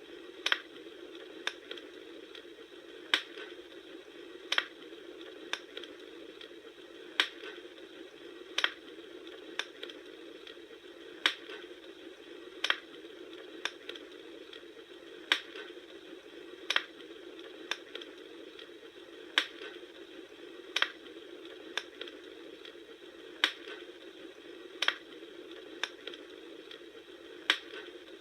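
Wood bonfire crackling: a steady soft hiss of burning, broken by sharp pops and snaps roughly once a second at uneven intervals, some louder than others.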